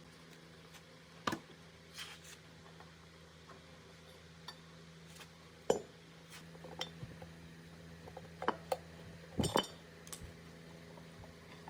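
Irregular metallic clinks and knocks of metal parts and hand tools being handled, a dozen or so separate strikes with the loudest near the middle and near the end, over a faint steady hum.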